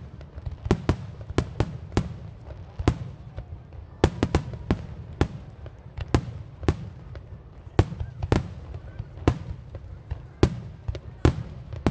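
Fireworks shells bursting overhead: an irregular string of sharp bangs, often two or three in quick succession, over a continuous low rumble.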